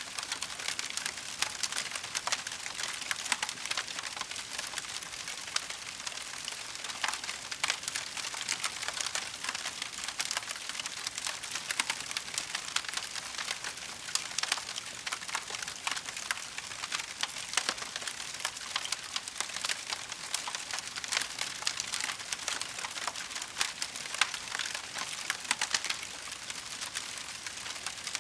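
Burning wood crackling in a fireplace: a steady hiss full of small, irregular pops and snaps.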